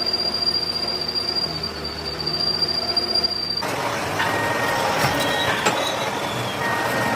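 Metalworking machine tool running with a steady high whine over a low hum. About three and a half seconds in, the sound turns abruptly to a harsher, noisier metallic sound with a steady squeal and scattered clicks.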